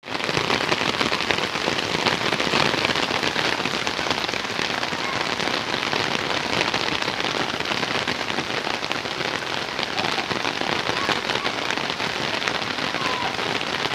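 Steady rain falling, a dense hiss of drops striking surfaces.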